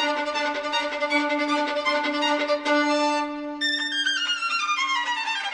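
Background music of fast violin playing over a held low note, breaking into a quick descending run of notes near the end.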